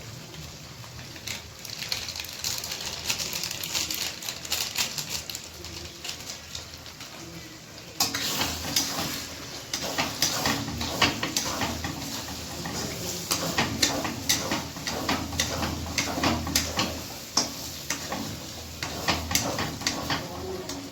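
Food frying in hot oil in a pan, with a steady sizzle and the clatter of a metal utensil stirring and scraping. The sizzle suddenly gets louder about eight seconds in and stays loud.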